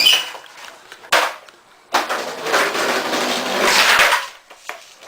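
Skateboard: a sharp wooden clack of the board, another about a second later, then the board running along the floor for about two seconds, with a couple of light knocks near the end.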